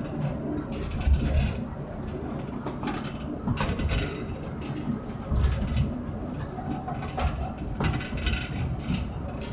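Narrow-gauge forest railway train running: a steady low rumble with irregular clacks and knocks from the wheels on the rails.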